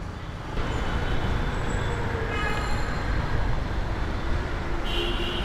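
Motorcycle riding in traffic: steady engine, road and wind noise that gets louder about half a second in, with a brief horn-like tone near the end.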